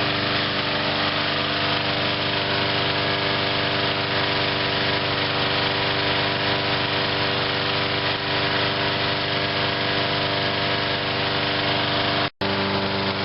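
Briggs & Stratton engine of a 2003 Huskee (MTD) 22-inch self-propelled lawn mower running steadily on its own, being run dry of fuel before winter storage. The sound cuts out for an instant near the end.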